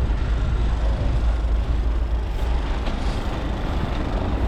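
Blizzard wind buffeting the microphone: a steady low rumble with an even hiss above it.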